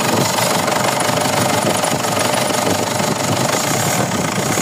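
Mazda BT-50's 3.0 L WE four-cylinder turbo-diesel running with a fast, steady knocking clatter. The engine is running unevenly on injectors that need calibrating, with the number 3 injector weak.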